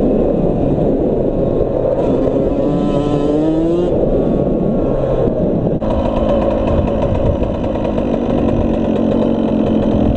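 Suzuki RM85 85cc single-cylinder two-stroke dirt bike engine running under throttle, its pitch rising about two to four seconds in; the sound changes abruptly near six seconds in and runs steadier after that.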